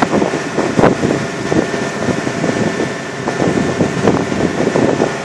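Strong wind buffeting the microphone in irregular gusts, over the steady running of a shrimp boat's engine.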